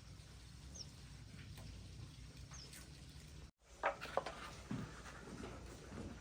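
Faint, short high squeaks and whimpers from young puppies, loudest in a cluster a little past the middle.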